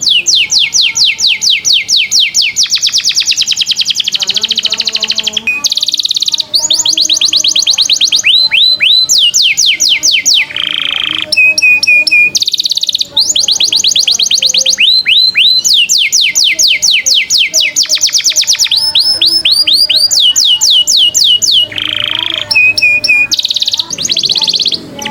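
Recorded songbird masteran of canary, cililin and lovebird song: long, fast trills of repeated high downward-sweeping whistle notes, about ten a second, broken now and then by short buzzy notes, cutting off suddenly at the end.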